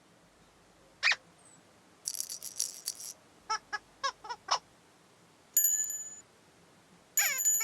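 Cartoon sound effects from a children's TV soundtrack. About a second in there is a short chirp, then a high fizzy patch, then five quick squeaky blips. Two bell-like chimes ring out, one after about five and a half seconds and one near the end.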